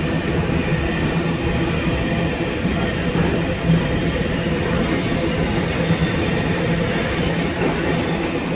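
Train running with a steady engine drone and the even rumble of rolling stock.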